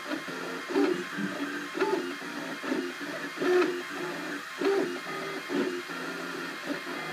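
Cubify 3D printer printing: its stepper motors drive the print head in short moves, giving tones that change pitch every fraction of a second, over a steady fan hiss.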